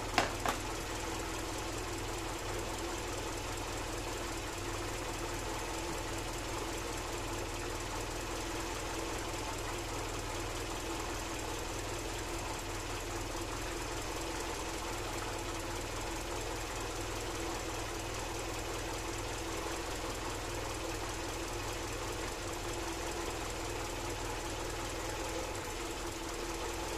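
Mercedes-Benz M102 2.0-litre four-cylinder engine, running on home-built electronic fuel injection, idling steadily while it warms up from a cold start.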